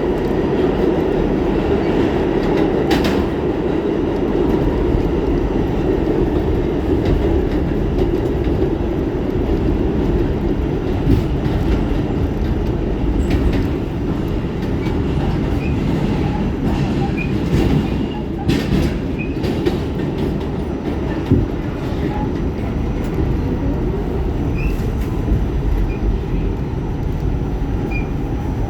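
New York City Subway R46 car running along the track: a steady rumble with a few sharp clicks and, in the second half, brief faint high wheel squeals.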